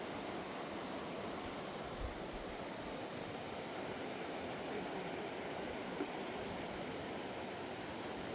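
Steady rush of a fast-flowing mountain river, with a faint knock about two seconds in and another about six seconds in.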